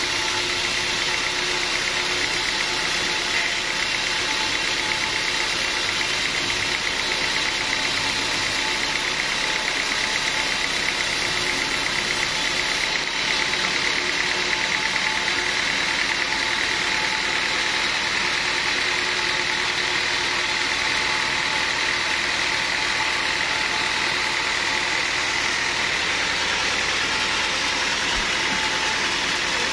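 Sawmill machinery running steadily: a continuous mechanical drone with a steady high whine that does not let up.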